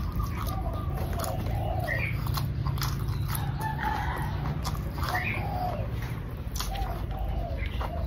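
Close chewing and mouth clicks from someone eating sticky rice with chili paste, with short animal calls repeated several times in the background.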